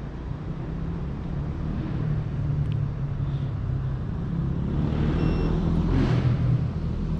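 Steady low engine hum with a rushing noise that swells about five to six seconds in, like a motor vehicle going by.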